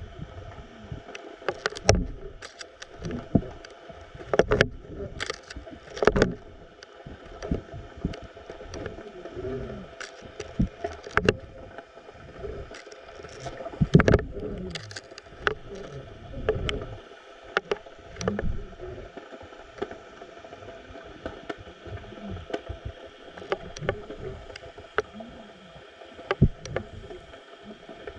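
Water sounds picked up through a GoPro's waterproof housing: a steady multi-toned hum, with irregular knocks and clicks as the housing is jostled and water sloshes around it.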